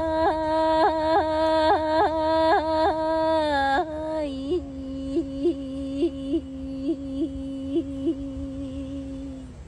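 A woman's voice imitating a bird-like call: one long held note, flicked up in quick yodel-like breaks about three times a second. The note drops lower about four seconds in and fades out near the end.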